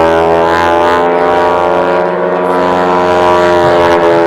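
Propeller airplane's engine droning steadily, its pitch sagging slightly and then rising again near the end.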